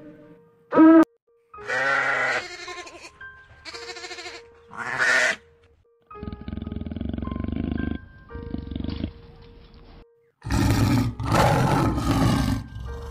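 A burrowing owl's short call, then a snow leopard's pitched calls and a low growling rumble, then a lion roaring loudly near the end.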